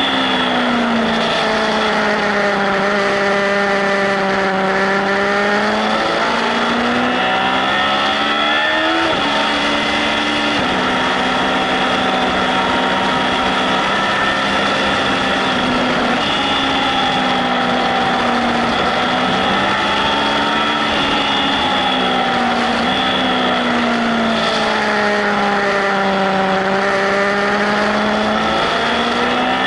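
Yamaha Fazer 1000 inline-four motorcycle engine at track speed, its revs falling on braking into corners and climbing again on the throttle, with quick steps in pitch at the gear changes. A steady rush of wind noise lies underneath.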